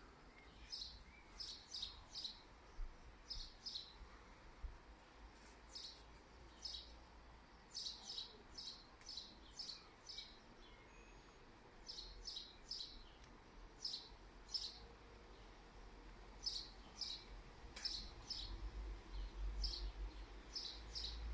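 Small birds chirping: short high chirps, often in quick pairs or runs, repeated throughout. A faint low rumble underneath grows louder near the end.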